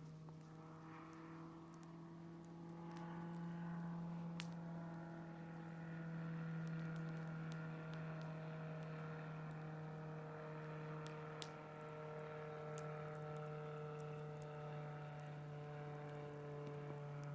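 Small airplane flying low overhead, its engine a faint steady drone whose pitch wavers slowly as it circles. A few faint sharp clicks are heard over it.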